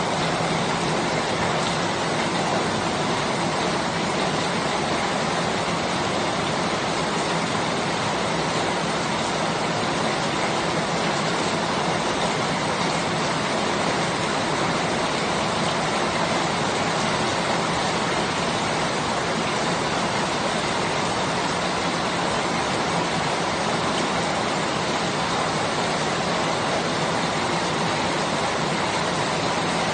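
Steady rain falling, an even hiss that stays the same throughout, with no single drops, thunder or other sounds standing out.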